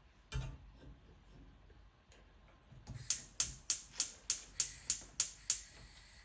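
A single sharp knock, then from about three seconds in a run of about nine sharp, evenly spaced knocks, roughly three a second.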